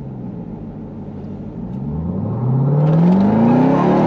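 Jeep Grand Cherokee Trackhawk's supercharged 6.2-litre V8 drops in pitch, then from about two seconds in revs up steeply and gets louder under hard acceleration.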